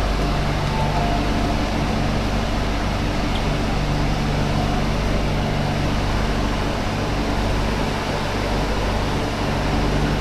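MTR Q-train in motion, heard from on board: a steady rumble and hiss with a low, even hum. A couple of short tones sound within the first second and a half.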